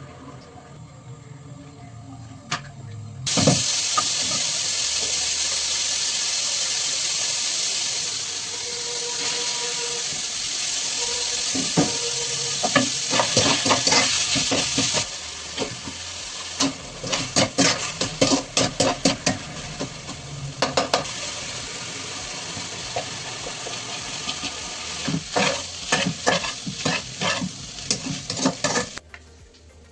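Fried rice sizzling loudly in a hot pan over high flame, starting suddenly about three seconds in. A metal spatula scrapes and clatters against the pan as the rice is stirred and tossed, most often in the second half.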